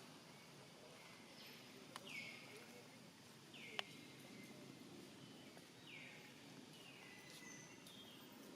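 A bird calling faintly over quiet outdoor hiss, a short falling call repeated about every two seconds. Two sharp clicks cut in, about two seconds in and just under four seconds in.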